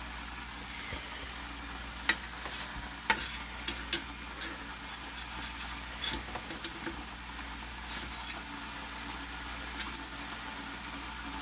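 Potato pancake frying in oil in a cast-iron skillet: a steady sizzle with scattered sharp clicks and pops.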